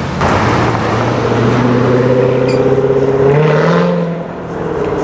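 Equus Throwback S V8 accelerating hard, its loud exhaust note climbing steadily. It rises further a little after three seconds in, then falls away about a second later.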